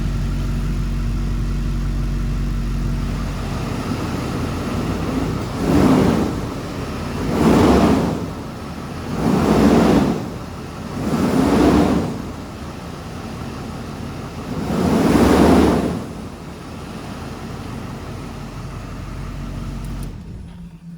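Truck engine idling, revved up briefly five times, then shut off near the end.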